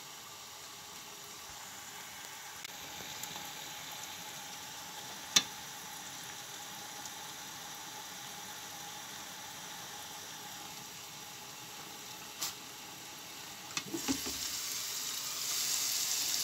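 Chicken and carrot slices sizzling steadily in a pot under a glass lid, with two sharp clicks. Near the end the lid is lifted with a few knocks, and the sizzling gets louder.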